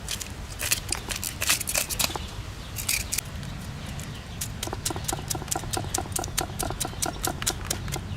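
A series of sharp knocks: scattered at first, then from about halfway through a fast, even run of about five knocks a second, each with a short ring.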